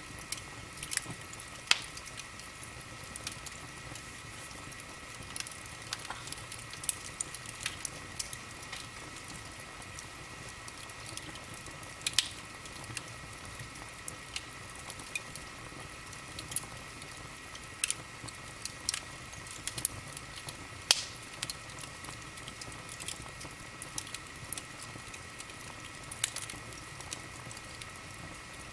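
Wood fire in a fireplace crackling, with irregular sharp pops over a steady low hiss.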